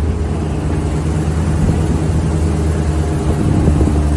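Open-air truck's engine running as it drives, a steady low rumble with no break.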